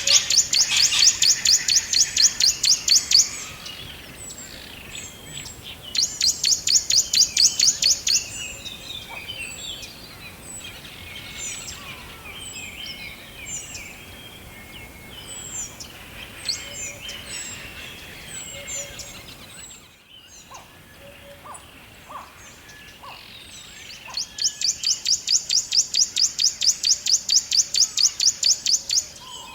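Several songbirds singing: one bird gives a loud, fast trill of evenly repeated high notes three times, at the start, about six seconds in and again near the end, while other birds chirp and call more faintly in between.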